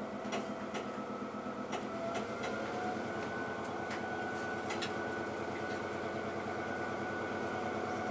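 Diesel train running steadily as it draws a steel-wheeled rail trolley, the engine's pitch rising a little about two seconds in, with a scattering of sharp clicks.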